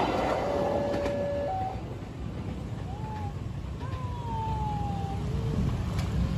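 The last coach of a passenger train rolling away from a level crossing, leaving a low rumble. A steady electronic warning tone from the crossing stops about a second and a half in. Later, faint gliding whine tones sound while the boom barrier lifts and motorbikes idle.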